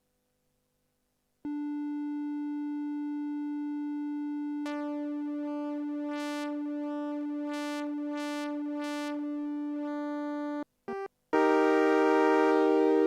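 TSynth, a Teensy 4.1-based polyphonic synthesizer, playing a held note: after a second and a half of silence a single steady tone starts, then about three seconds later it turns brighter with a pulsing shimmer in the high end. The note stops, a brief blip follows, and near the end a louder, brighter note comes in.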